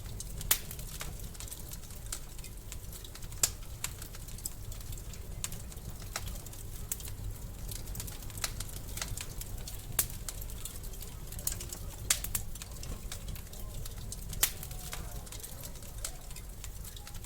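Wood fire crackling in a fireplace: a steady low rumble of flames with constant small snaps and about five louder pops.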